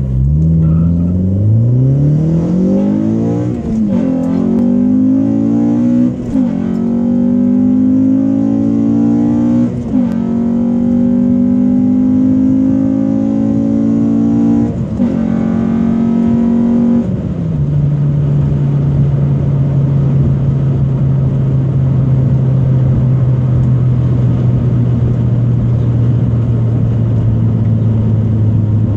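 2013 Honda Civic Si's 2.4-litre four-cylinder, fitted with an RBC intake manifold, accelerating hard through the gears. The engine pitch climbs in each gear and drops sharply at four upshifts. After the last climb it settles to a steady, lower drone.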